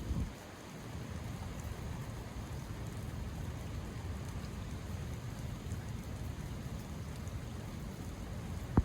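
Steady rain falling, an even wash of noise, with one sharp knock just before the end.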